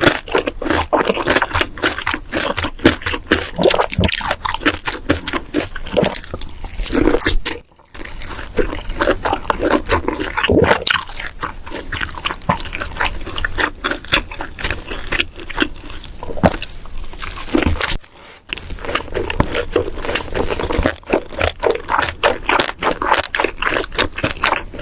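Close-miked eating of bossam pork, spicy shrimp and kimchi: rapid crunching, chewing and wet mouth sounds, broken by two brief gaps.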